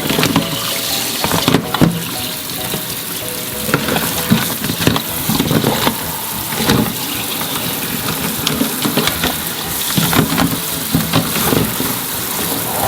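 Tap water running while whole mud crabs are washed and scrubbed in a sink, with irregular knocks as the crabs are handled.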